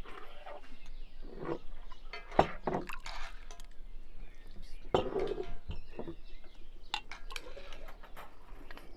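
Tableware clinking: glass mugs, plates and spoons handled on a table, a few separate sharp clinks, the loudest about two and a half seconds in.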